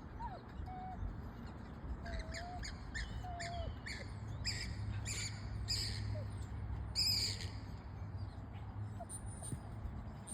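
Bird calling: a run of short call notes, about two a second, starting about two seconds in and stopping a few seconds later, followed by faint high chirps near the end. A steady low rumble lies underneath.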